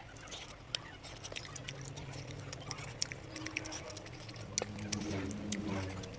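Close-up eating sounds: wet chewing and lip-smacking, a quick, irregular run of small clicks as curry and meat are chewed.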